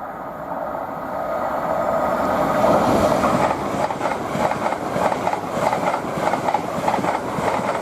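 LNER Class 801 Azuma electric train passing at speed: the rush of wheels on rail builds over the first three seconds, then a rapid run of wheel clicks follows as the carriages go by, with a steady whine above it.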